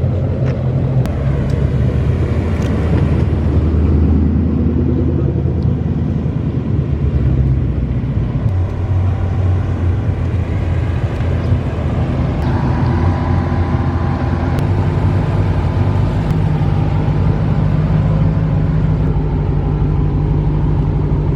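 Car engine running under way, a steady low drone whose pitch shifts a couple of times as the car drives.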